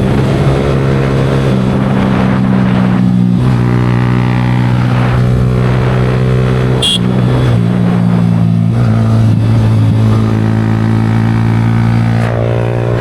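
Yamaha R15 V4 single-cylinder engine breathing through a Leo Vince aftermarket exhaust, running at fairly steady revs with a few small changes in pitch. A rushing noise sits over it.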